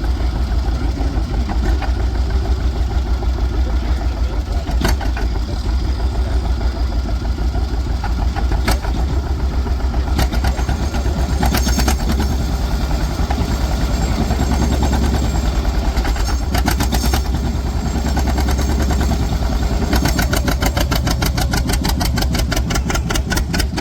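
Antique tractor engine running steadily, with a fast, even firing beat throughout and a rapid ticking heard over it in the last few seconds.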